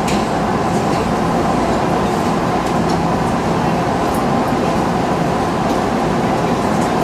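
Steady hum and rumble of a stationary Tokyu Toyoko Line electric train, heard from inside the driver's cab.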